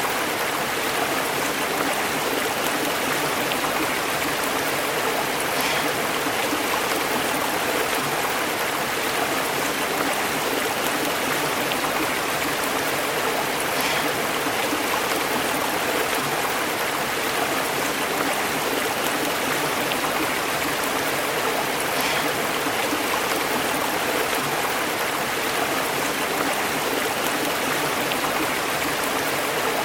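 Stream flowing and burbling over rocks: a steady, even rush of water.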